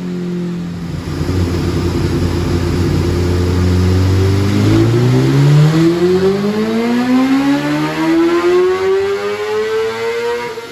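BMW S1000RR inline-four through an Akrapovic race exhaust, pulling hard from low revs: a rough low note at first, then a smooth, steady rise in pitch lasting about six seconds, which peaks and starts to drop right at the end.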